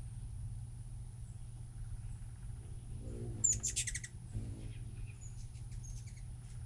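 Hummingbird chittering: a quick burst of rapid, high chip notes about three and a half seconds in, then a few fainter chips, with a low wing buzz just before and after the burst.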